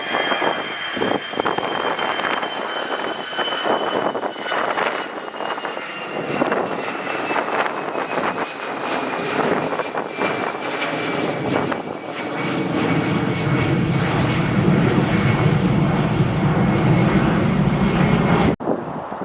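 Airliner engines passing, with a high whine that slowly falls in pitch under a broad roar. From about twelve seconds in, a deep rumble builds and holds, then cuts off abruptly near the end.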